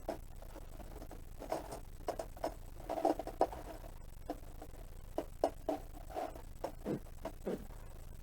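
Irregular handling noises: a scattered series of light taps, clicks and rustles, a dozen or so and unevenly spaced, as things are picked up and moved about on the plastic fridge.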